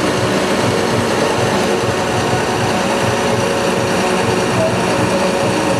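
Diesel engine of a Mercedes-Benz Atego fire-brigade aerial ladder truck running steadily, with an even low pulsing.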